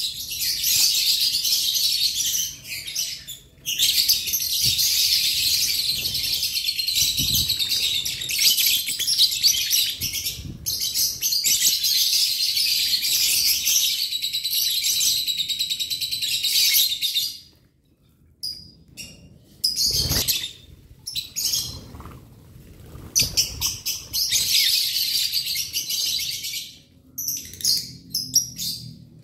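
A flock of lovebirds chattering: dense, continuous high-pitched chirping for most of the first half, then a lull with scattered chirps, and another burst of chatter near the end.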